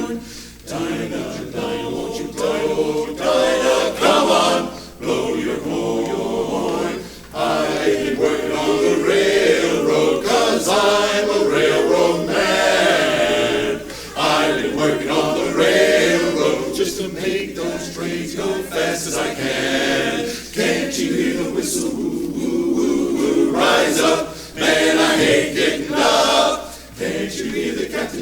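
Men's a cappella chorus singing in close harmony, phrase after phrase with short breaths between.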